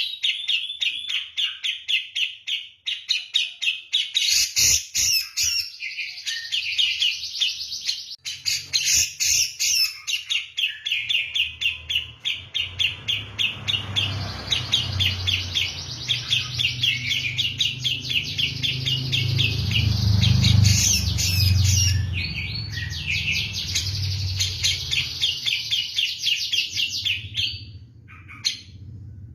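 Cucak jenggot (brown-cheeked bulbul) singing hard and persistently: long runs of quick, high chattering notes, several a second, with a brief break near the end. A low rumble sits under the song through most of it.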